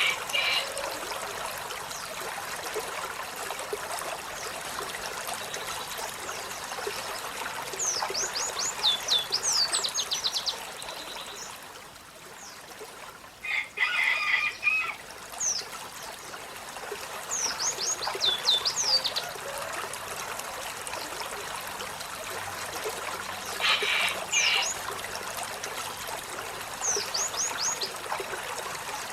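Olive-backed sunbird singing: several quick runs of high, falling notes, with lower chattering phrases between them, over a steady background hiss like running water.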